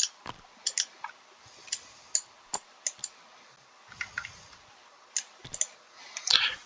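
A run of about fifteen short, sharp clicks at uneven spacing, several in quick pairs, as game units are moved one by one, with a softer dull sound about four seconds in.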